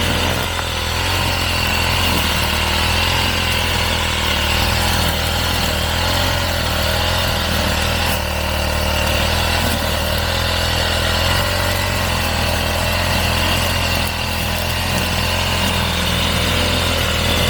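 Small engine of a grass-cutting brushcutter running steadily at working speed.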